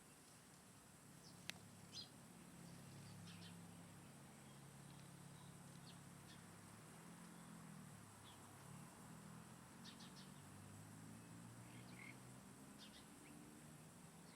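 Faint, scattered short bird chirps over a quiet background, with a low hum through most of it and one sharp click about a second and a half in.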